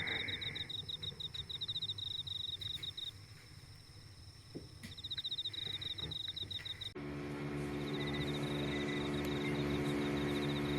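A cricket-like insect trilling in high, rapid pulses, with a break of about two seconds early on. About seven seconds in, the background changes and a low, steady hum joins the trill.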